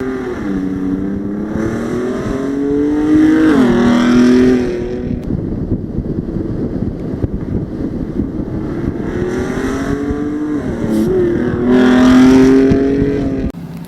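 Ford Raptor's twin-turbo V6 through a Corsa Extreme cat-back exhaust with aftermarket downpipes, accelerating hard. The engine note climbs and then drops sharply twice, at about four seconds and about eleven seconds in. It cuts off suddenly just before the end.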